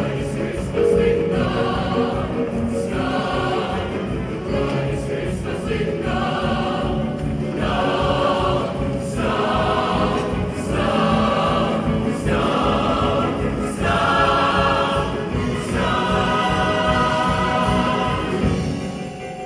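Student choir singing a Christmas song in phrases over steady sustained lower notes; the sound dies away in the last second or so as the song ends.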